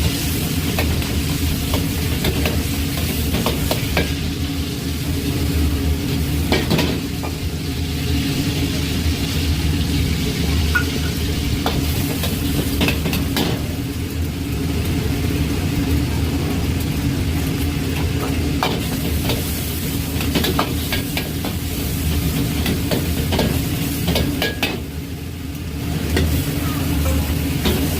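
Fried rice sizzling in a pan as it is stir-fried, a metal spatula scraping and clicking against the pan again and again, over a steady low hum.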